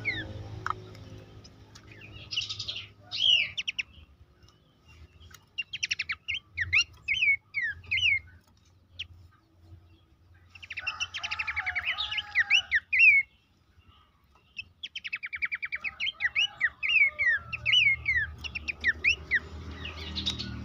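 Pelanduk semak babbler singing in four bursts of fast chattering trills mixed with quick downslurred whistles, separated by short pauses.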